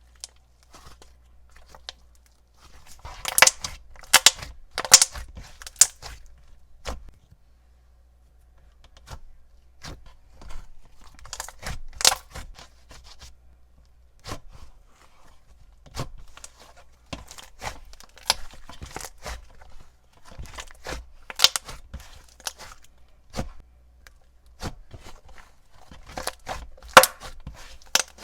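Slime being squished, stretched and poked by hand, making irregular sticky clicks, pops and crackles in clusters with short pauses between.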